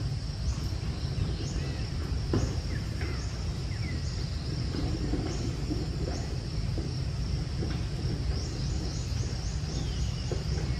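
Outdoor ambience: a steady high insect drone with short repeated chirps and a few brief bird-like calls, over a constant low rumble; the chirps come in a quick run near the end.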